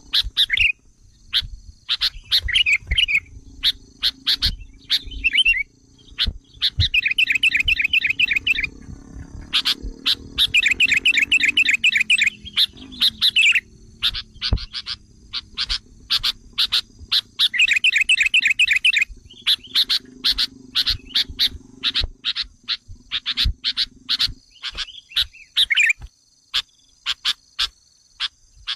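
Sooty-headed bulbul (kutilang) agitated calling, the kind of lure call used to provoke wild bulbuls: a stream of sharp chips with three rattling trills, one about a quarter of the way in, a longer one near the middle and another about two-thirds in.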